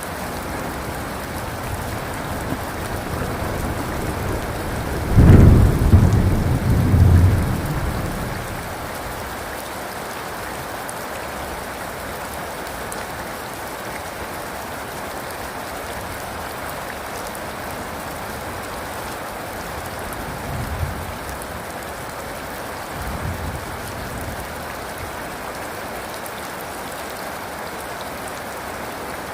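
Steady heavy rain falling, with a loud rolling thunderclap about five seconds in that rumbles for a few seconds, then two fainter distant rumbles of thunder later on.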